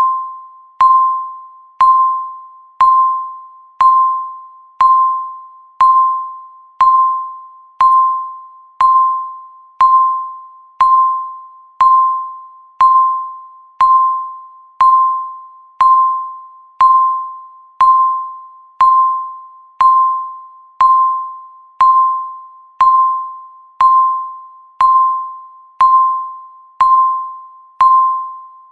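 Countdown timer tick: a short, bell-like electronic ding with a click at its start, once every second. Each ding dies away before the next one.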